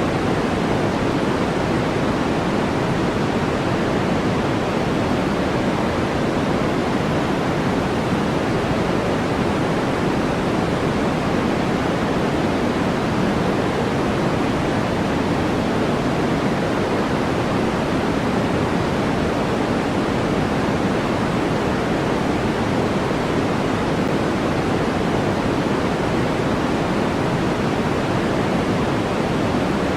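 A steady, unchanging electronic white noise track: a continuous even hiss with no events in it. It is weighted toward the low and middle range and thins out toward the highs, closer to pink noise.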